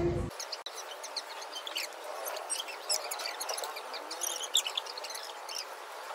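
Small birds chirping, many short scattered calls overlapping over a steady hiss.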